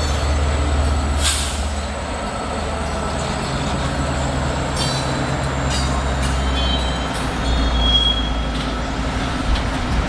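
CPKC freight train rolling slowly through track switches: a steady low rumble of the cars with a few short bursts of clatter, and a brief high wheel squeal about seven seconds in.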